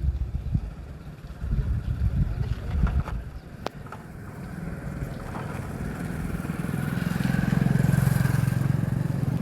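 A motor vehicle engine running and getting louder through the second half, as if approaching, after a few seconds of irregular low thumps and knocks.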